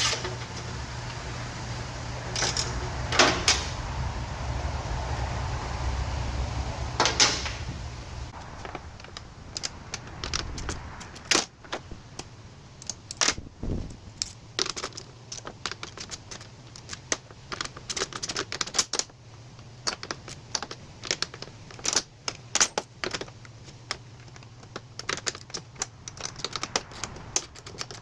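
Irregular sharp clicks and clinks of hand tools and small metal parts working on metal as a battery disconnect switch is unbolted. A low steady hum sits underneath and stops about eight seconds in.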